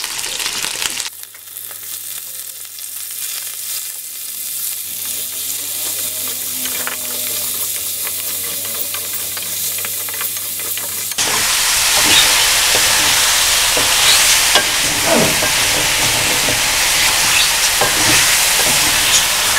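Bone-in chicken pieces frying in hot oil in an aluminium karahi: a steady sizzle. It grows louder about eleven seconds in, with a wooden spatula stirring and scraping the pieces around the pan.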